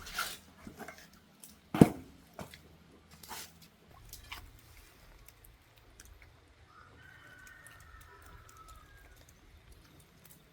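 A few sharp knocks and taps in the first four seconds, the loudest about two seconds in. Then a rooster crows once, faintly, in one drawn-out call.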